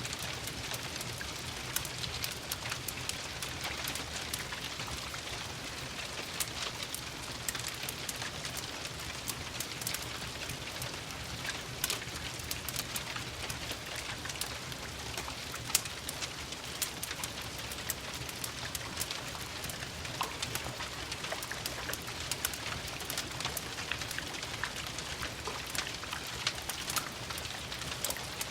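Steady rain mixed with a crackling wood fire: an even hiss of rain with many small sharp pops and ticks scattered throughout.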